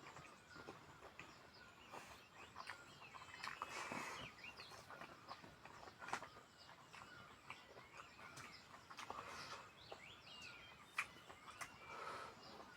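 Faint birds chirping in the background, with small clicks and soft mouth noises from someone eating.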